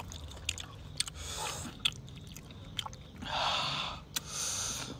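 Eating sounds: chewing spicy-sour squid, with scattered small clicks and three short, breathy hisses of air.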